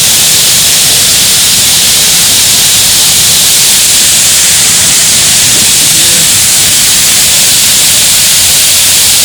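Waterfall close by, water rushing over rock in a loud, steady, even rush that does not let up.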